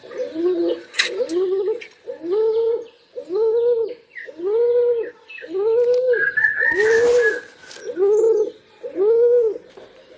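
Pigeons cooing: a steady run of about nine coos, roughly one a second, each rising and falling in pitch. A short higher chirp and a brief rustle come about two-thirds of the way through.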